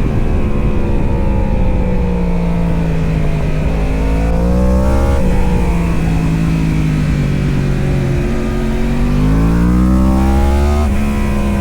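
Racing superbike engine at high revs, its pitch falling off as the throttle closes, climbing again about halfway, dropping, then rising steadily for several seconds near the end as the bike accelerates.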